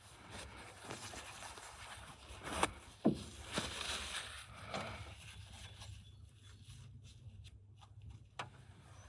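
Hand work on car parts: irregular scraping with a few sharp clicks and knocks, the loudest a little under three seconds in, over a steady low hum. It goes quieter for a couple of seconds near the end.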